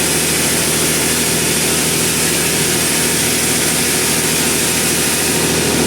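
Sawmill machinery running steadily: a constant engine hum with a high hiss over it.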